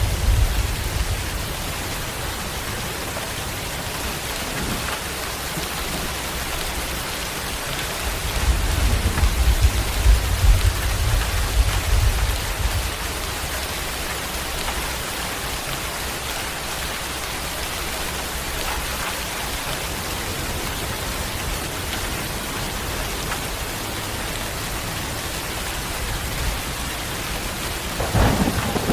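Steady rain with rolling thunder. A low rumble of thunder swells about eight seconds in and lasts a few seconds, and another begins near the end.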